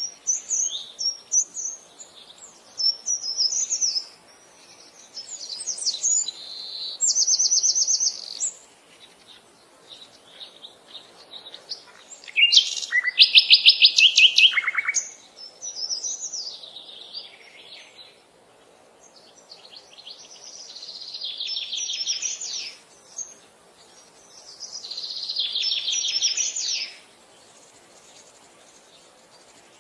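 Songbirds singing: bouts of high chirps and rapid trills, repeated every few seconds with short pauses between, the loudest trill about halfway through.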